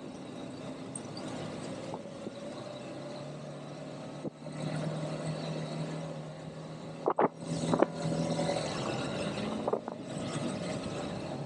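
ATV (quad bike) engine running during an off-road ride. It gets louder and higher about four seconds in, and a few sharp knocks come through around seven to eight seconds in.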